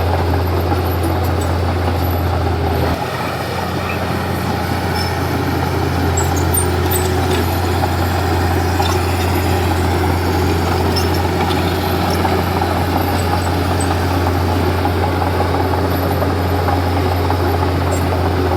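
Komatsu D31P bulldozer's diesel engine running steadily under load, with a brief drop in level and a change in its low tone about three seconds in, and faint scattered clicks over the drone.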